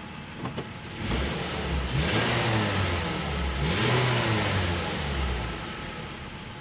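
Mazda 6 engine revved twice from idle, the pitch climbing and dropping back each time before it settles to idle near the end; a couple of light clicks just before the first rev.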